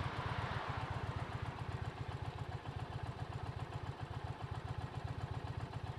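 Motorcycle engine idling at a standstill, a steady, even pulsing exhaust beat.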